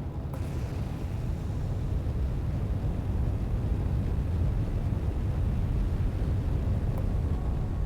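Low, steady engine rumble that grows a little louder about a second in.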